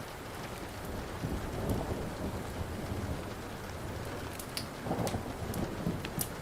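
Steady rain with low rolling thunder rumbling underneath, swelling a couple of times. Several sharp crackles and pops from a burning wood fire come in the second half.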